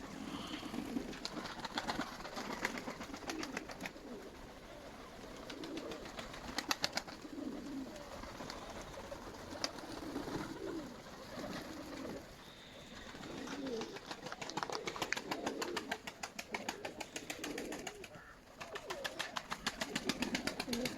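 Nikolaev pigeons cooing, low repeated calls, with several stretches of fast, fine clicking mixed in.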